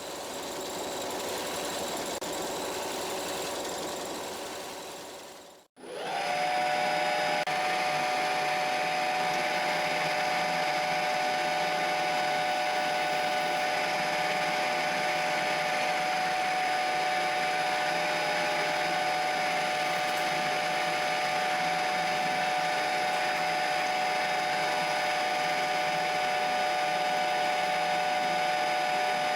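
A machine tool running, fading away over the first few seconds, then a sudden cut about six seconds in. After the cut another machine tool runs steadily with a constant whine, as in metal machining of aluminum.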